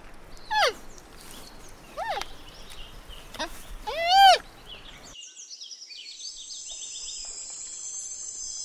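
Giant panda giving three short calls, each a quick bleat that glides in pitch, the last the loudest. About five seconds in, the sound cuts to a steady, high-pitched chirring of crickets.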